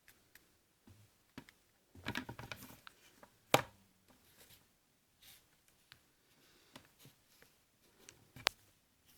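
Light handling clicks and taps in a quiet small room: a short run of clattering about two seconds in, then single sharp clicks about three and a half and eight and a half seconds in.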